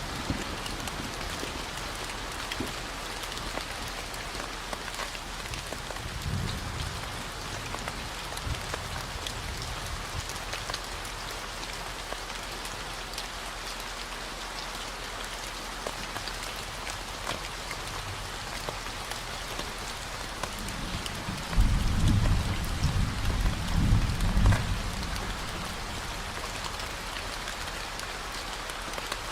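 Steady rain falling, with a constant deep 40 Hz gamma-wave tone underneath. Low thunder rumbles come in, faintly about six seconds in and louder from about twenty-two to twenty-five seconds, briefly standing above the rain.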